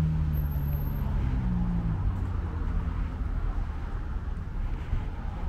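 Classic car engine running at low speed, a low steady rumble whose pitched note fades after about two seconds.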